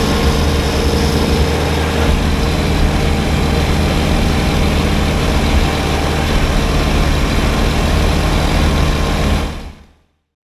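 Kubota BX23S compact tractor's three-cylinder diesel engine running steadily while working a front-mounted snowblower. It fades out about nine and a half seconds in.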